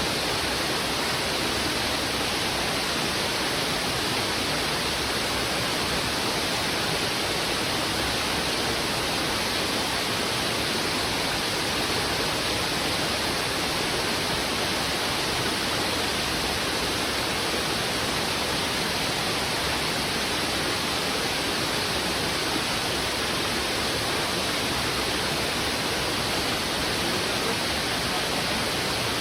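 Heavy river current rushing over rocks: a steady, dense rush of water with an even level and no distinct splashes.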